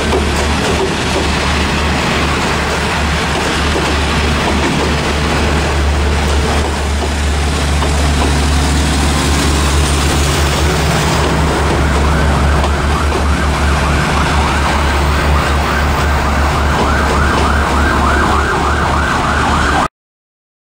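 Diesel railcar train passing close by, with a loud, steady rumble of engine and wheels on the rails. From about halfway a fast, rhythmic sound joins in. The sound cuts off abruptly just before the end.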